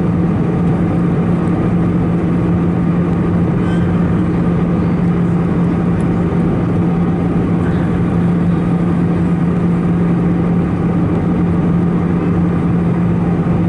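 Steady cabin drone of an Airbus A319-111: its CFM56 turbofan engines and the rush of air past the fuselage, with a strong low hum that holds constant and no change in pitch or level.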